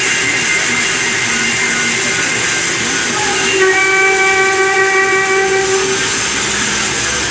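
CNC lathe machining a steel DS38 box connection, running with a steady loud hiss. A high whistling squeal rises over it about three and a half seconds in and lasts about two seconds.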